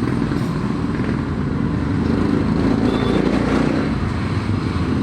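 Motorcycle engine running steadily, with a steady hum and road noise.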